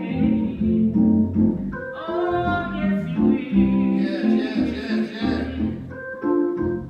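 Gospel music: guitar and other instruments playing held chords, with a voice singing over them.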